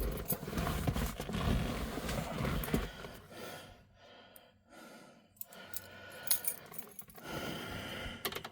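Handling noises with a jingle of keys: rustling and knocking for about three seconds, then a quieter stretch with a single sharp click and more rustling near the end.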